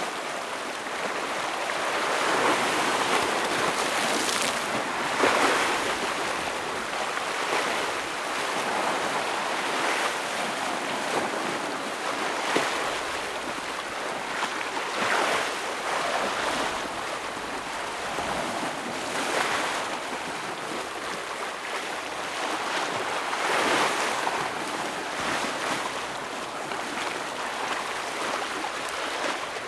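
Ocean waves breaking on a rocky shore: a continuous wash of surf that swells every few seconds, with sharper splashes as waves hit the rocks, and some wind on the microphone.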